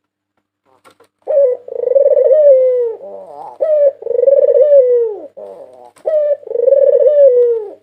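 White Barbary dove (puter putih, a white ringneck dove) cooing three times. Each call is a short opening note followed by a long rolling coo that drops in pitch at the end.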